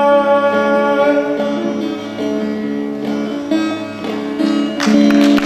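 Live band playing the instrumental close of a song with sustained chords, then audience applause breaking out near the end.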